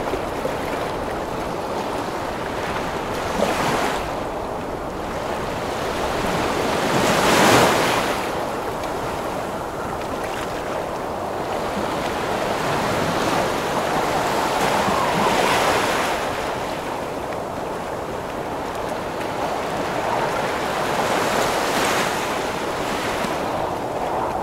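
Heavy ocean waves breaking in a wind storm, a steady rush of surf with wind over it. Waves surge and break every few seconds, the biggest about a third of the way in.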